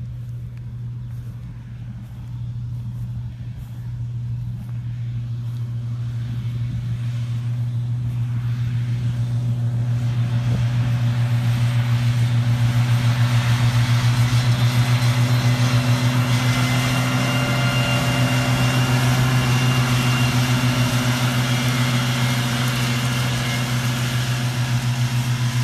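A McCormick tractor's diesel engine runs at a steady working speed, getting louder over the first dozen seconds as it draws closer, then holds steady.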